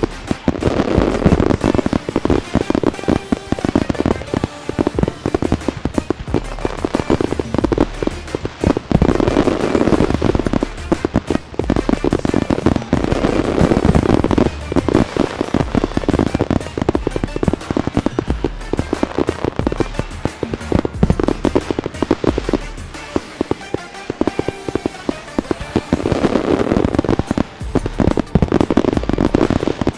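Fireworks bursting in rapid, continuous volleys of bangs and crackles, with music playing underneath.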